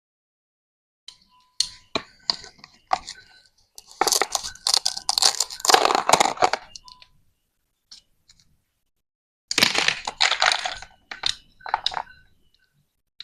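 Plastic toy vegetables being cut and pulled apart: a few sharp clicks and knocks, then two stretches of crackling, tearing noise as the pieces separate, and two last knocks near the end.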